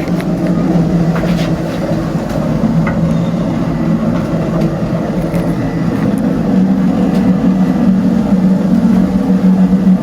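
A steady low mechanical drone, like an engine running, holding a few steady tones without change, with faint scattered clicks and knocks as cab controls are handled.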